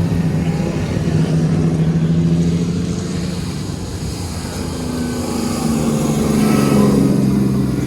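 A car engine running at low revs with a steady note, its pitch rising a little about five seconds in.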